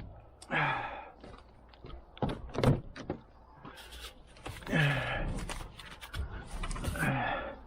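Scattered metal knocks and clanks from hand work on a car's strut assembly. A man's short, strained vocal sounds come three times, each falling in pitch.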